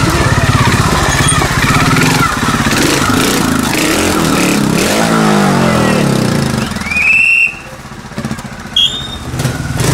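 Trials motorcycle engine running loud and blipping, its pitch sweeping up and down about five seconds in, then dropping away sharply about seven and a half seconds in. A short rising squeal comes just before the drop, and a brief high chirp near the end.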